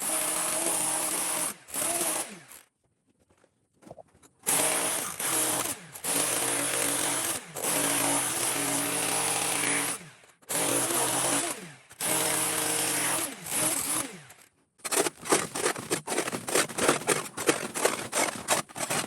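Handheld electric power tool working rock, run in bursts of one to two seconds with its motor winding down between them, then triggered in a quick string of short bursts near the end.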